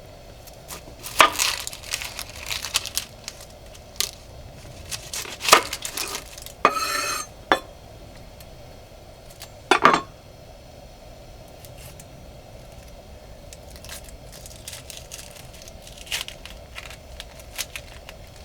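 Cooking prep by hand: a run of sharp knocks and clinks of utensils and dishes, with crinkling and tearing of wrapping, and a rough sound lasting about a second around seven seconds in. The second half is quieter, with only light scattered ticks.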